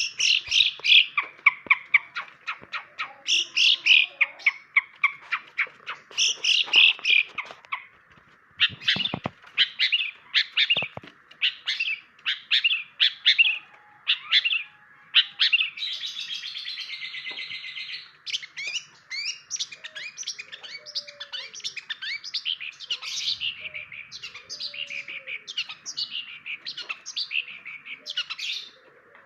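Long-tailed shrike (cendet) singing a rapid, varied series of sharp high chirps and calls, with a dense buzzy rattle for about two seconds past the halfway point, over a steady faint hiss.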